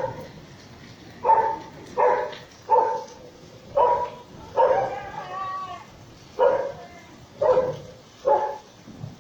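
A dog barking repeatedly, about eight barks spaced roughly a second apart, with one longer, wavering bark near the middle.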